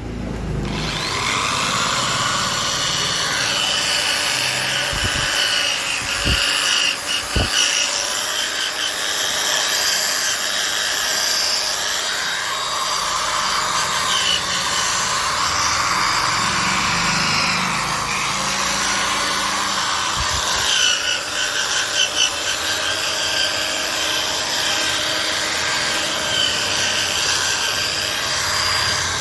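Electric polishing machine buffing a motorcycle's bodywork: a steady high rubbing whir that wavers in strength as the pad is pressed and moved.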